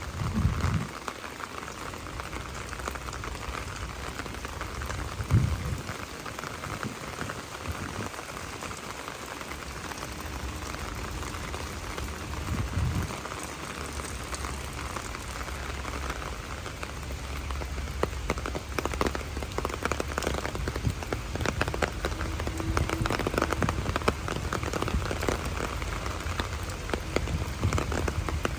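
Steady rain falling, with many individual drops ticking close by. A few short low thumps come about half a second in, around five seconds and around thirteen seconds.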